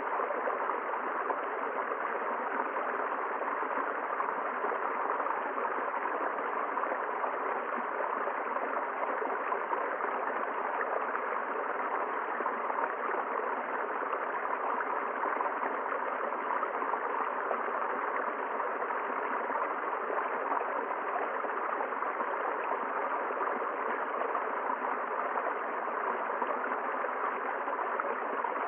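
River water flowing steadily, a constant even rush with no breaks or changes.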